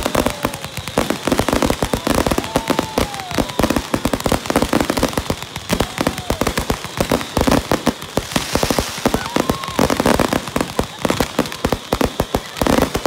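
Fireworks going off in rapid, continuous bangs and crackling, from cakes and fountains firing at ground level.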